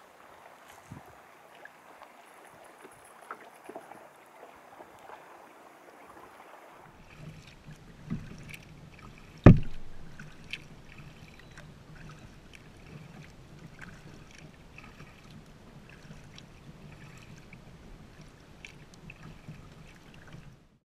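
Kayaks being paddled on a lake: paddle strokes splashing and water lapping, with light clicks and knocks against the hull and one loud, sharp knock about nine and a half seconds in.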